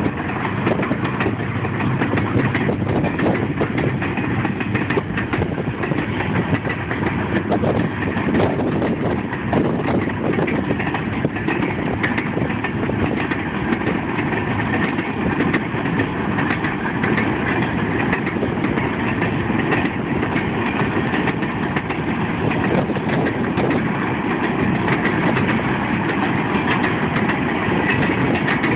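Freight cars rolling past on the rails: a steady, loud rumble of steel wheels on track, with a constant scatter of rapid clicks and rattles.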